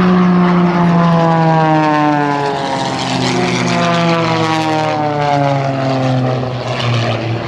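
Propeller engines of the Extra 300 and MX2 aerobatic planes flying in formation, their note falling steadily in pitch over several seconds as they pass by, then holding lower.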